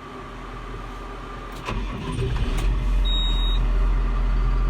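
John Deere 7130 tractor's diesel engine starting and coming up to a steady run, growing louder in a step about two seconds in. A short high electronic beep sounds near the middle.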